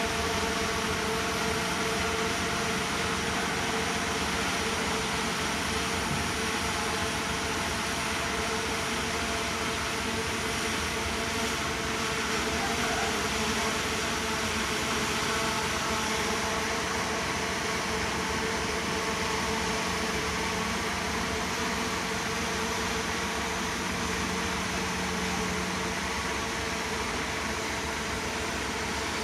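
Heavy earthmoving machine's diesel engine running steadily, with a constant whine over the noise.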